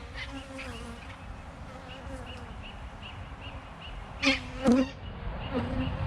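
Honeybees buzzing around an open hive, their pitch sliding as single bees fly past. About two-thirds in, two bees pass close by and the buzz swells sharply for a moment.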